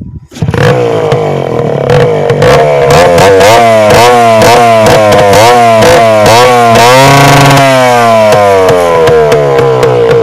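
TVS Max 100R motorcycle engine revved loud through a broken, holed silencer: the throttle is blipped again and again, about two quick rises and falls a second, with one longer rev about seven seconds in, settling back toward idle near the end.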